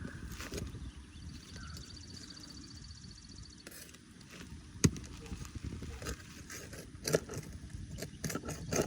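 Roofing tools knocking and scraping on asphalt shingles while nails are pried out, with one sharp knock about five seconds in and a few lighter clicks near the end, over a steady low background noise.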